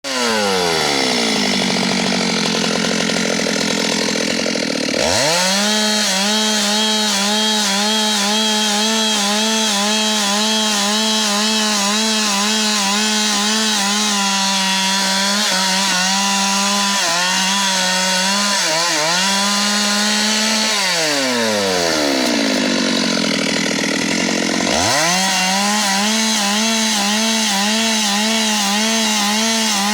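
Stihl MS 382 two-stroke chainsaw running at high revs while cutting a tree. Its pitch falls off at first, jumps back up sharply about five seconds in and holds with a slight wobble, then dips and climbs back again in the last third.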